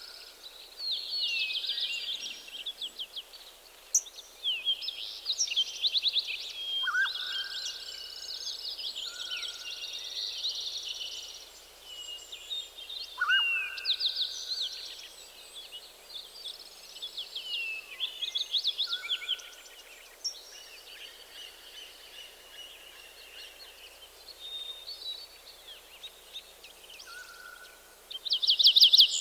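Several songbirds singing in a forest dawn chorus: overlapping chirping, trilling phrases, with a lower short whistle repeating every five or six seconds. The song grows loudest in a burst near the end.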